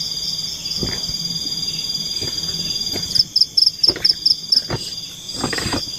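Forest insects singing in a steady high-pitched chorus; about three seconds in, one louder insect chirps in quick pulses, about seven over a second and a half, before the steady chorus returns. A few faint knocks.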